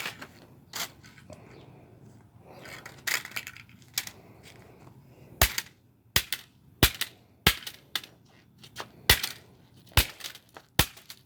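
Repeated hard blows smashing parts of a Whirlpool Duet washing machine. A few scattered strikes come in the first half, then a steady run of blows about once every 0.7 seconds.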